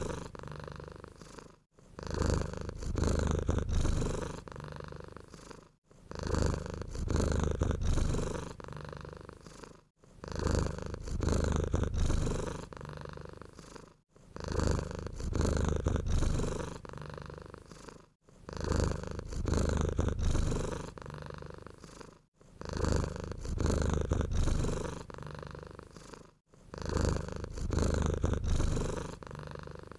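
Domestic cat purring close up, deep and steady, in even cycles of about four seconds: each starts loud, fades away, and pauses briefly before the next.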